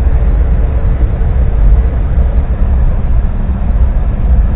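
Loud, steady low rumble of outdoor background noise, heaviest in the deep bass, without a clear rhythm or pitch.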